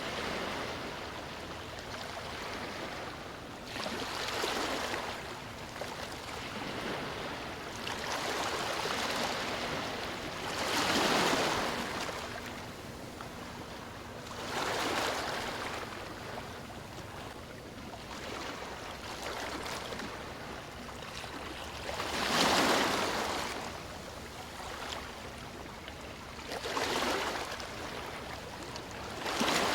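Ocean waves washing onto a beach: a steady hiss of surf swelling into a louder wash every few seconds, strongest twice, about a third and three quarters of the way through.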